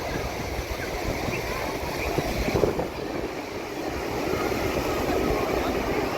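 Steady rush of wind on the microphone and surf on the shore, with faint voices from people close by.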